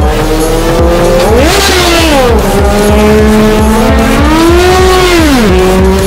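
Superbike engine revving hard twice, the pitch climbing then dropping back each time, the second rev held longer.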